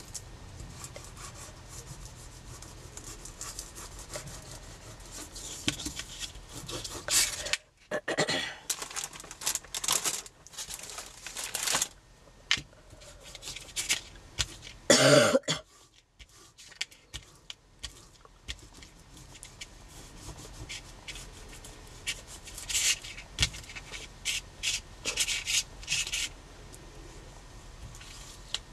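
Paper and card rubbing and rustling in short strokes as two cut pieces of a tag are glued together, with a single cough in the middle.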